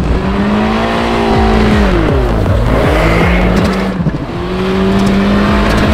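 Nissan Pulsar's engine revving hard through a handbrake drift, the revs dropping about two seconds in and climbing back, over a rush of tyre noise.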